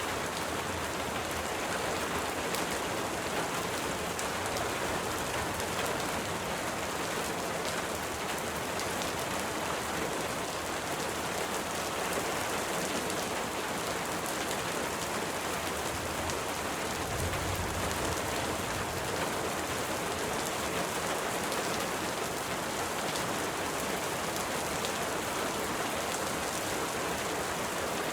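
Steady rain pattering against window glass, an even dense hiss with fine drop ticks. A brief soft low rumble comes about two-thirds of the way through.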